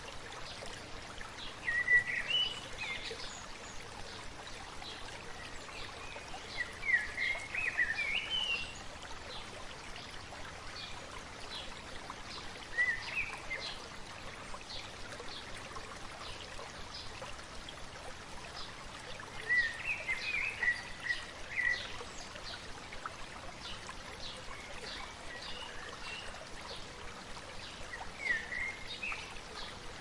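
A songbird singing short warbled phrases, five times and several seconds apart, with many faint quick chirps between them, over a steady rushing background noise.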